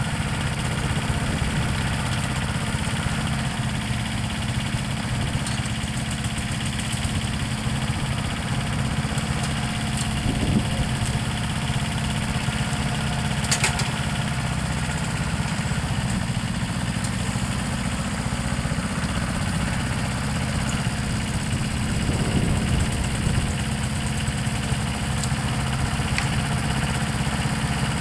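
An engine running steadily at idle, a low even hum, with a few sharp clicks over it.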